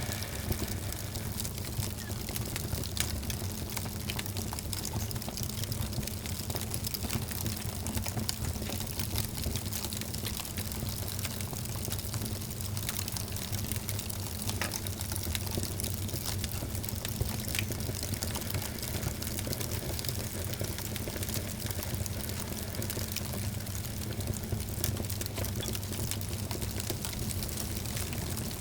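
Wood fire burning in a fireplace: a steady low rumble of flames with irregular crackles and pops throughout.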